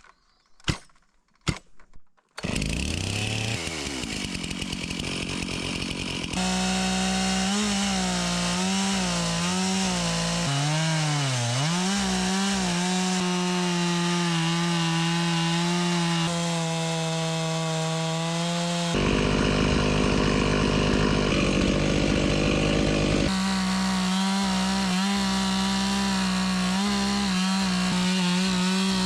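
A few sharp clicks, then a two-stroke chainsaw starts about two seconds in and runs at high revs. Its pitch dips and recovers as it cuts through the damaged ends of a large log.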